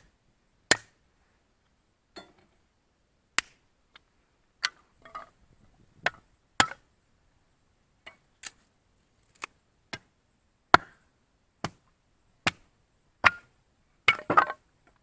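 A series of single sharp knocks, about one a second at uneven spacing, ending in a quick cluster of several knocks.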